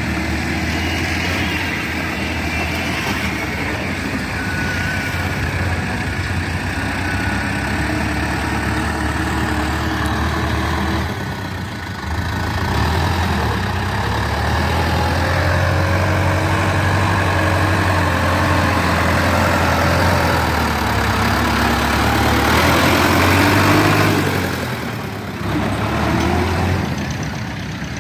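Heavy vehicle engine running steadily, a little louder from about twelve seconds in, with a brief dip near the end.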